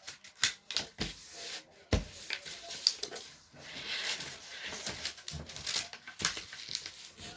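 A sheet of paper being folded and creased by hand: irregular rustling and crinkling with quick ticks, and a sharper knock about two seconds in.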